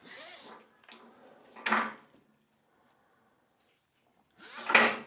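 Handling noises as tie-down straps and their metal hooks are fitted to a motorcycle lift: a brief rustle of strap webbing, a clink about two seconds in, then a louder metallic clatter near the end.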